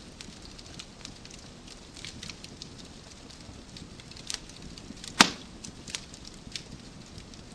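Wood fire crackling in a fireplace: a soft steady hiss with scattered sharp snaps, and one loud pop a little after five seconds in.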